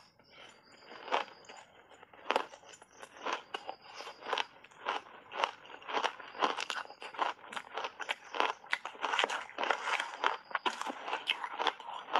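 Shaved ice coated in matcha powder crunched between the teeth in big bites: an irregular run of sharp crunches, a few a second, coming thicker after the first few seconds.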